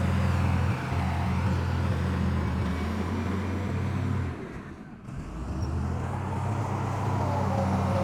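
Heavy diesel engine of earthmoving equipment running steadily with a low drone; the sound drops away briefly about halfway through, then comes back.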